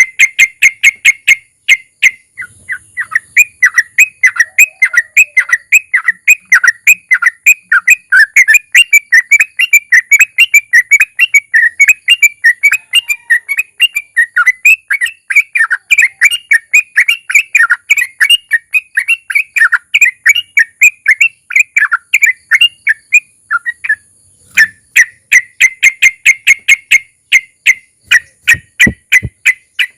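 Yellow-vented bulbul (trucukan) singing a long unbroken run of quick repeated chirping notes. Fast sharp rattling notes come at the start and again near the end, with looser warbled phrases between, over a steady faint high hiss.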